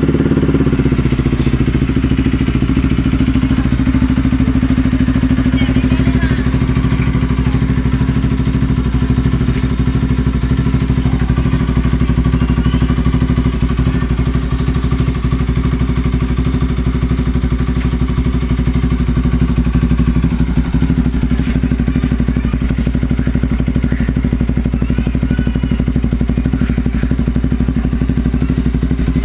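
Bajaj Pulsar RS200's single-cylinder engine idling steadily right after a cold start, its pitch settling slightly lower over the first few seconds.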